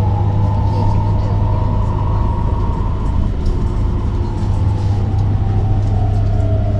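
Electric bus's traction motor whining over a steady low hum. The whine climbs slightly over the first two seconds, then slowly falls in pitch as the bus slows.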